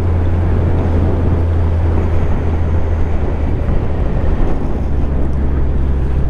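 Motorcycle engine running steadily under way, with wind noise on the helmet microphone; the engine note changes about four and a half seconds in.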